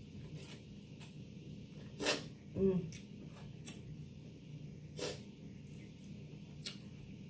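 Close-up mouth sounds of chewing Mexican street corn just bitten off the cob: scattered wet smacks and clicks. About two seconds in comes a loud snort followed by a brief 'mm', and another sharp smack follows about five seconds in.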